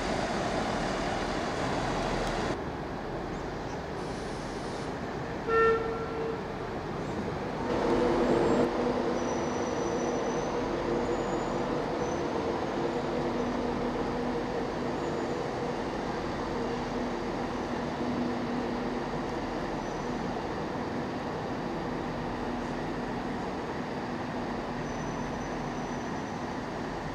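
Trains at a station platform: a train horn gives one short toot about five and a half seconds in, then from about eight seconds a standing train's engine drones steadily with several held tones.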